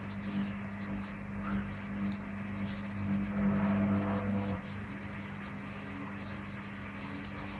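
Servis Gem M310 washing machine starting its first spin, a steady motor hum with a low drone. It grows a little louder, then drops back to a lower steady level about four and a half seconds in.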